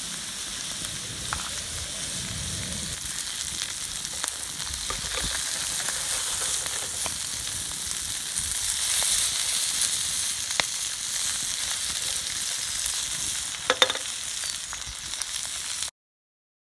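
Bacon, egg and greens frying in a wide steel pan over an open fire: a steady sizzle with small pops and crackles. A brief clatter of sharp knocks comes about fourteen seconds in, and the sound cuts off suddenly near the end.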